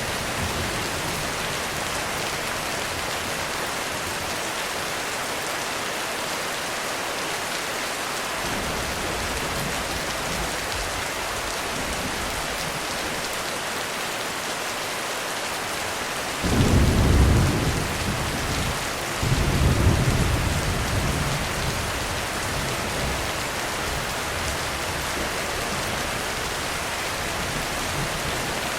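Heavy rain falling steadily on a roof. About halfway through, thunder cracks in suddenly with a loud low rumble, then a second peal follows a couple of seconds later and rolls off gradually.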